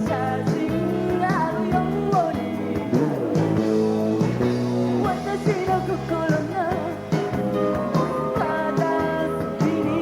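Live pop-rock band performance: a female lead vocal sings over electric guitar, bass and drums.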